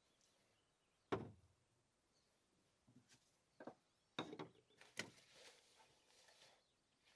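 Several short knocks, the loudest about a second in, then a quicker cluster of knocks and clatters a few seconds later, trailing into soft rustling.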